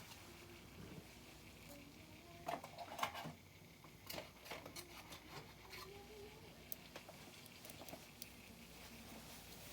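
Faint handling noises: small clicks and taps of diecast toy trucks being picked up and set down, with the loudest few taps about two and a half to three seconds in.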